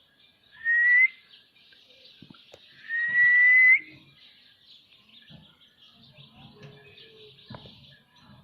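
Ringneck parrot giving two loud, slightly rising whistled calls, the first short and the second about a second long, followed by faint scattered clicks.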